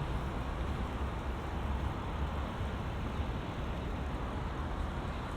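Steady road traffic on a multi-lane bridge, cars passing in a continuous rush with a low rumble underneath.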